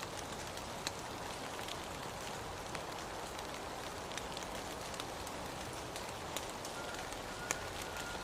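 Steady rain falling, with scattered individual drops striking close by as sharp ticks. A faint, steady high tone joins near the end.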